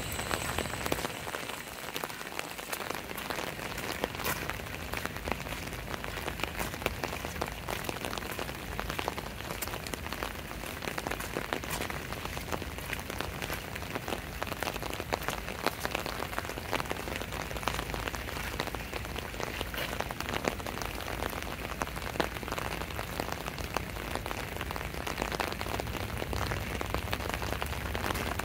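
Steady rain falling, with the fine ticks of many individual drops.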